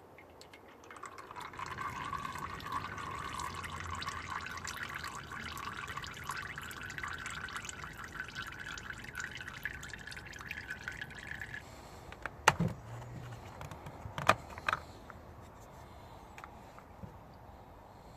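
Engine oil pouring in a steady stream for about ten seconds, then stopping abruptly. Two sharp knocks follow, a couple of seconds apart.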